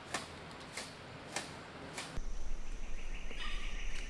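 Rainforest ambience: a few faint clicks about every half second, then, about two seconds in, a steady high-pitched tone with chirping calls over it.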